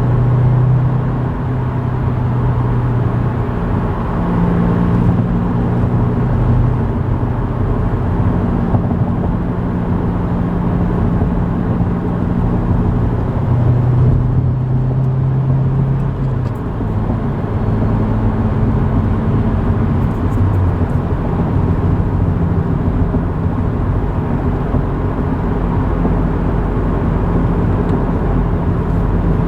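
2024 Subaru WRX's 2.4-litre turbocharged flat-four running through a Nameless Performance 4-inch axle-back exhaust while driving, a steady low engine note that shifts in pitch a couple of times.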